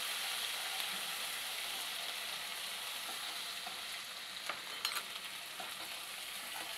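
Ginger-garlic paste sizzling steadily in hot oil on a high flame while a wooden spatula stirs it through the pan. A couple of short clicks come a little past the middle.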